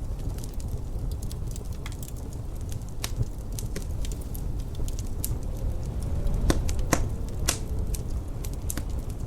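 Wood fire crackling in a fireplace: irregular sharp pops and snaps, the loudest few coming close together a little past halfway, over a steady low rumble.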